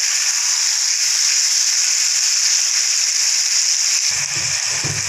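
Marinated chicken sizzling in oil on a tawa: a steady high hiss. About four seconds in, a spatula starts stirring and scraping the chicken across the pan.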